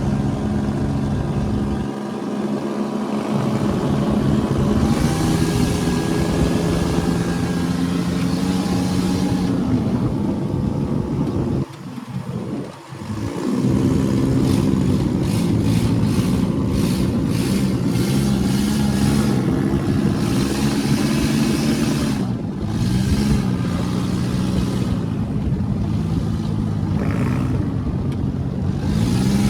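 Motor vehicle engine running under way, its pitch rising and falling as it revs and eases off. The engine sound drops away briefly about twelve seconds in.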